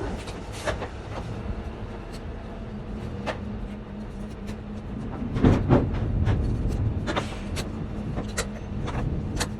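Steady low rumble of a lorry engine running, with scattered clicks and knocks and a louder clatter about five and a half seconds in.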